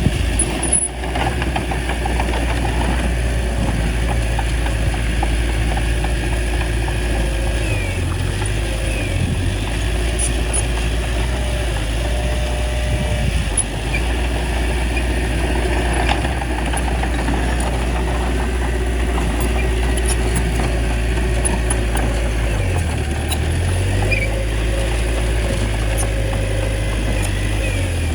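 Small bulldozer's diesel engine running steadily with a strong low rumble, its note dipping and recovering briefly about eight seconds in and again near the end.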